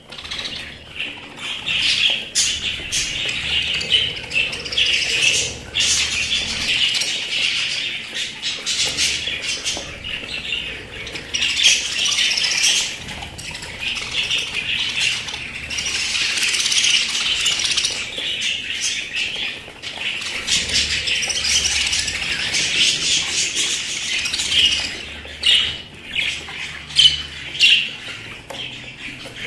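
Budgerigars chattering and warbling without pause: a dense mix of chirps and squawks, broken by many short sharp clicks.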